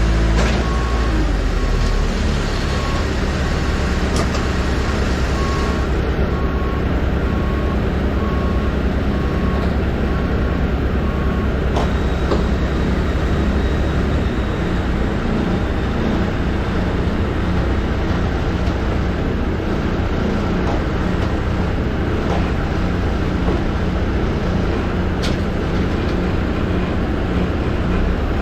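Steady, loud running of apron machinery used to unload an Airbus A320: a low engine hum with several steady tones, broken by a few sharp clicks.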